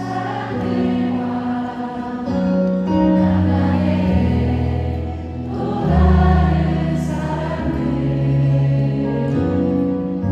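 Male vocal quartet singing a slow song in close harmony, with long held chords over a deep bass part.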